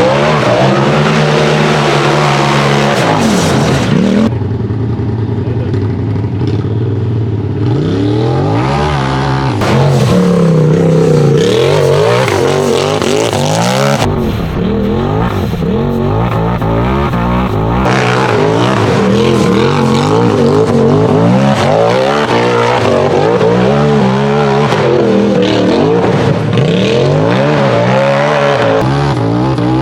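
Race UTV engine revving hard and easing off again and again, its pitch climbing and falling as it works up a hill climb course. The sound changes abruptly a few times, around 4, 14 and 18 seconds in.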